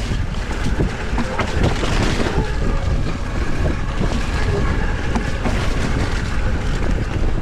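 Electric mountain bike riding a wet, muddy trail: a constant low rumble of tyres and wind on the microphone, with many small rattles and clicks from the bike over rough ground and a faint steady whine.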